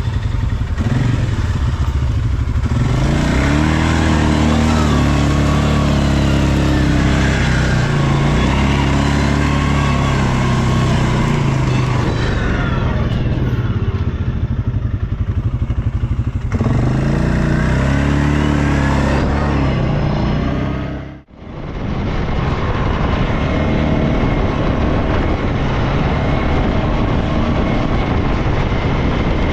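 ATV engines running hard, revving up and down repeatedly through mud. The sound changes abruptly twice and cuts out for a moment about two-thirds of the way through, then the engine runs on more steadily.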